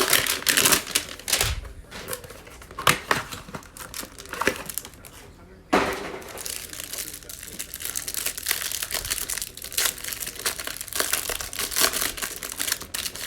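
Cardboard and plastic wrap of a trading-card hanger box being torn open and crinkled. There are sharp snaps and rips at first, then a sudden start of steady crinkling about six seconds in.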